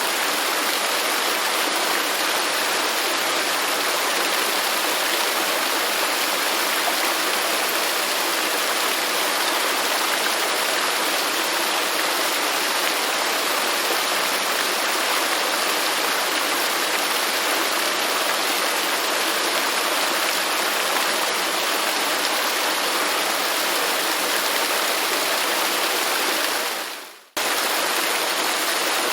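Waterfall rushing steadily. Near the end the sound fades out over about a second, then cuts straight back in at full level.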